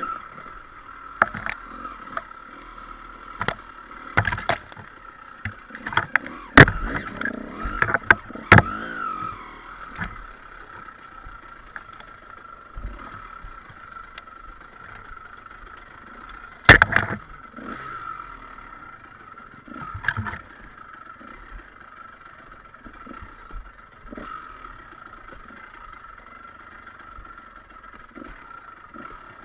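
Enduro motorcycle running at a steady engine note on a rough trail, with repeated sharp knocks and clatters from the bumps, thickest in the first third and with one loud knock a little past the middle.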